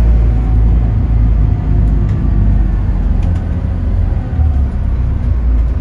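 Scania K280UB bus's diesel engine running, a steady low rumble.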